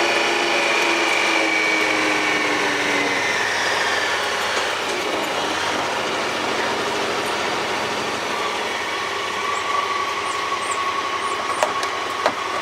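A vehicle's engine running while driving, its pitch easing down over the first few seconds as it slows. A steady whine comes in about two-thirds of the way through, and there are two sharp clicks near the end.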